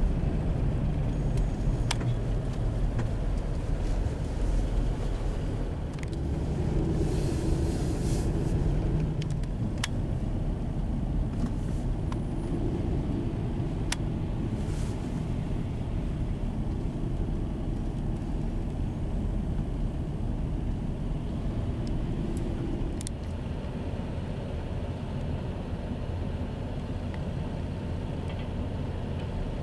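Street traffic: cars idling and creeping along in backed-up traffic, a steady low rumble of engines.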